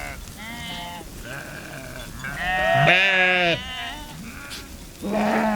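Sheep bleating, several calls one after another, the longest and loudest about three seconds in.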